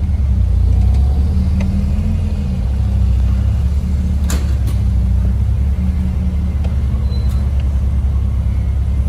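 Volkswagen Golf Cabrio's supercharged G60 four-cylinder engine running at a steady low note as the car moves slowly, heard from the open-top cabin. Two short sharp clicks come about four and a half seconds in.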